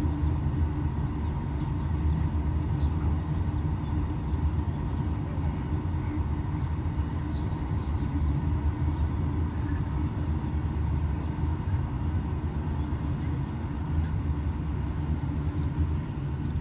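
Open-top steel freight wagons of a goods train rolling past on the track: a steady low rumble of wheels on rail.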